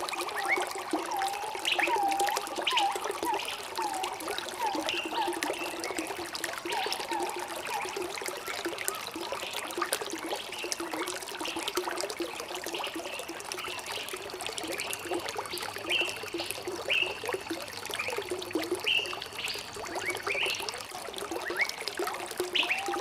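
Water trickling and gurgling in a small stream, with bird calls over it: a run of short repeated notes during the first eight seconds or so, and scattered higher chirps after that.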